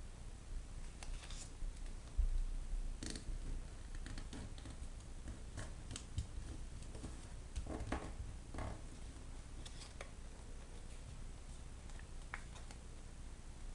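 A square of origami paper being folded and creased by hand: faint, scattered crinkles and rustles, with a soft low thump about two seconds in.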